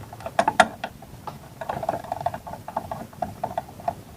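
Irregular light clicks and taps of metal parts and tools being handled while refitting an engine cover and its bolt, with a few sharper clicks about half a second in.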